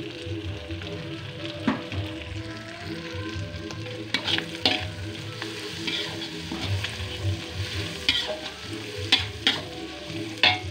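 Egg and chopped chilli sizzling in oil in a wok while being stirred, with a metal spoon scraping and clinking against the pan about seven times, mostly in the second half.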